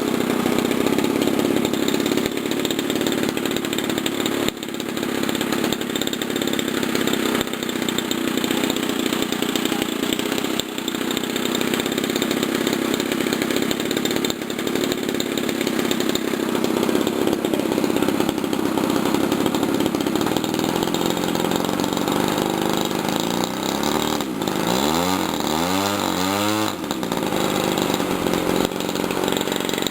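DLE 30 single-cylinder two-stroke gasoline model-airplane engine running steadily during break-in. Near the end its pitch swings up and down a few times.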